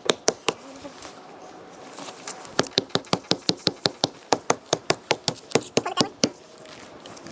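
A few sharp clicks, then a quick, even run of about twenty clicks or taps at roughly six a second, stopping about a second before the end.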